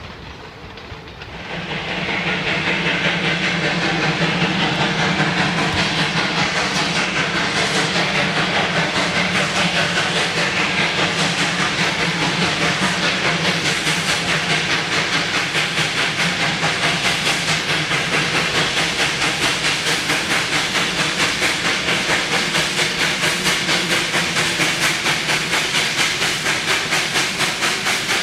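Great Smoky Mountains Railway 2-8-0 steam locomotive No. 1702 working steam, its exhaust chuffing in a fast, even beat over a steady hiss. It comes in loudly about two seconds in.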